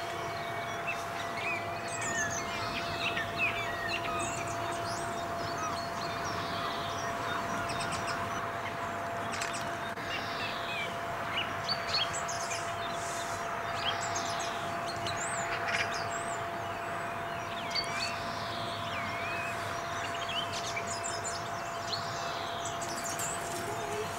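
Small songbirds chirping and singing, many short calls throughout, over a steady background hiss with a faint constant hum.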